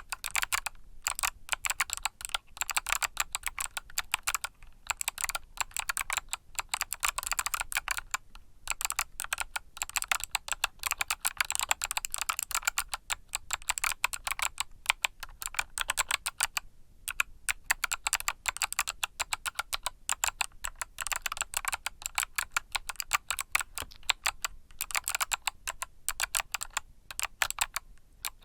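Fast, continuous typing on a mechanical keyboard with Kailh Box Summer switches: dense crisp key clicks with a few brief pauses.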